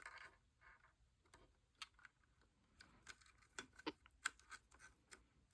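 Faint, scattered small clicks and taps of plastic LEGO pieces being handled, over near silence.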